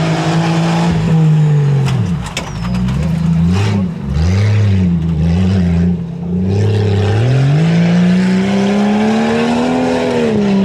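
Tuff truck's engine revving hard, its pitch dropping and climbing several times, then rising in one long climb near the end, with a few sharp knocks in the middle.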